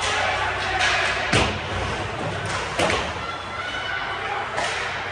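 Two sharp thuds about a second and a half apart, with a few lighter knocks, over a steady background of distant voices.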